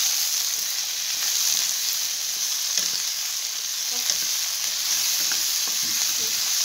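Chicken and vegetables (cabbage, capsicum, peas, carrots) sizzling in hot oil in a non-stick wok while a wooden spatula stirs them: a steady frying hiss with a couple of light ticks from the spatula.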